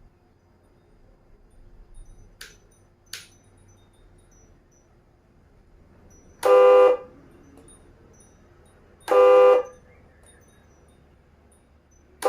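Two light clicks, then a horn honking in short blasts of a little over half a second each: two full blasts a few seconds apart and a third starting at the very end.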